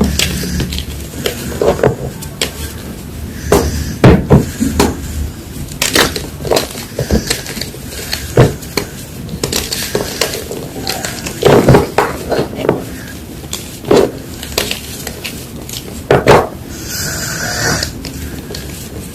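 Gym chalk being crunched and crushed: irregular sharp cracks and crunches, some much louder than others, with a softer crumbling hiss near the end.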